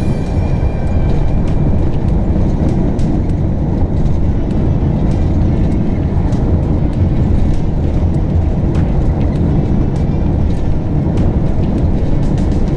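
Road noise heard inside a moving RV: a steady low rumble of engine and tyres, with frequent small clicks and rattles from the cab.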